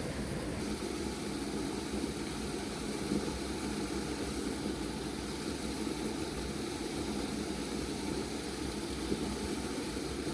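A steady rushing noise that holds level throughout, with no distinct events.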